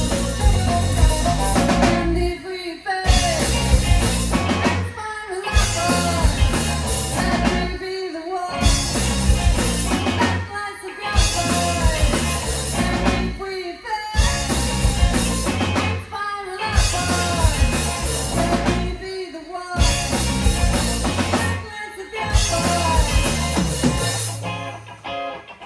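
Live rock band playing, with drum kit, bass and guitar, the whole band stopping together for a split second about every two and a half to three seconds. The full band drops out near the end, leaving a low held note.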